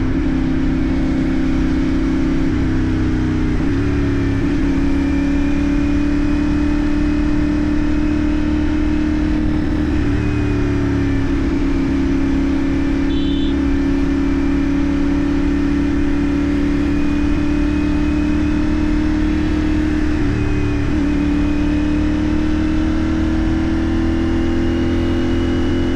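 CFMoto 450NK's parallel-twin engine running at cruising speed, its pitch dropping and then slowly climbing back several times as the revs change, over a steady rush of road and wind noise. A brief high beep sounds about halfway through.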